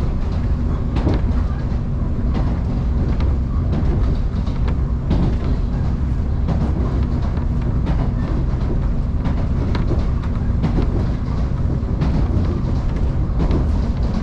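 Electric train running between stations, heard from inside the car: a steady low rumble of wheels on rail with scattered short clicks.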